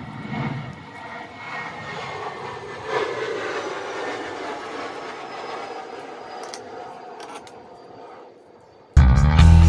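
A machine's motor running with a steady whir that slowly falls in pitch and fades away; loud music starts near the end.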